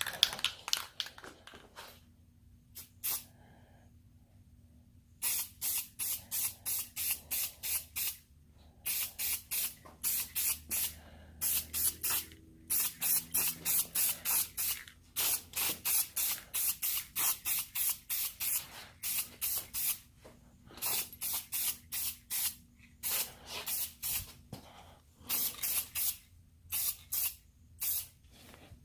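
Aerosol can of Rust-Oleum matte black spray paint spraying in short hissing bursts, about three a second, in runs broken by brief pauses, with a few clicks in the first seconds.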